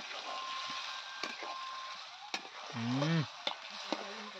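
Chicken curry sizzling in a kadhai, a wooden spatula stirring and scraping through it, with a few knocks against the pan. A brief voice-like sound comes about three seconds in.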